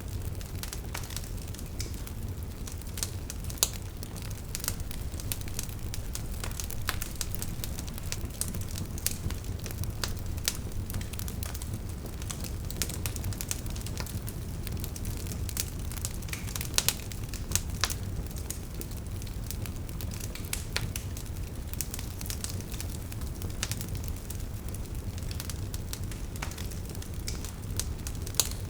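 Wood fire burning: a steady low rumble of flames with irregular crackles and pops from the logs, a few sharper pops scattered through.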